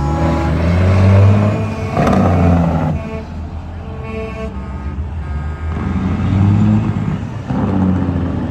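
Big trucks' diesel engines running and revving, swelling and falling in pitch. A horn sounds for over a second about three seconds in.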